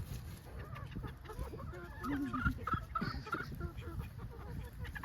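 Chickens clucking, a quick run of short calls in the middle, over a low rumble.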